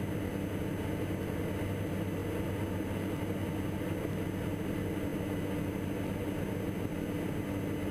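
Steady low drone of the Diamond DA42 NG's twin Austro AE300 turbo-diesel engines and propellers in flight, heard from inside the cockpit, with a constant low hum and no change in power.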